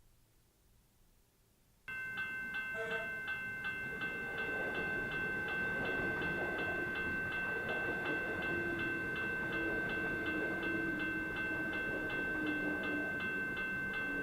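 Railway level crossing warning bell that starts suddenly about two seconds in and rings in fast, even, repeated strokes, with the rumble of a passing suburban train underneath.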